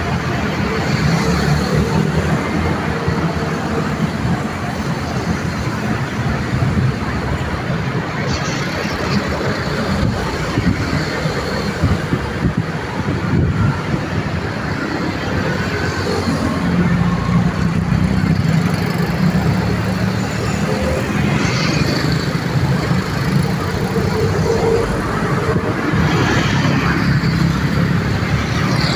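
Busy road traffic: a continuous stream of cars and heavier vehicles passing, their engines running with tyre noise, swelling and fading as each goes by.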